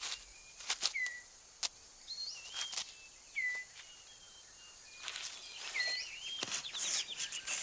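Scattered crisp snaps and rustles of twigs and leaves as a male six-plumed bird of paradise clears debris from his display ground. Short whistled forest-bird notes that dip and hook in pitch sound between them.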